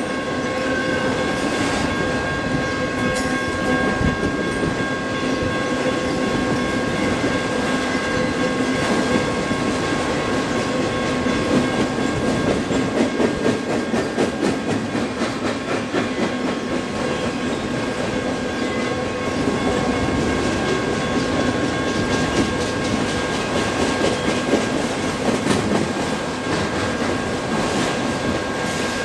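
Long freight train of autorack cars rolling past, wheels clicking steadily over the rail joints under a continuous rumble, with a few steady high tones held throughout.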